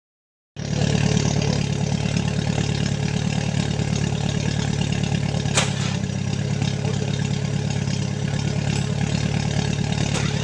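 Off-road 4x4 vehicle's engine running steadily, cutting in abruptly about half a second in, with one sharp click about halfway through.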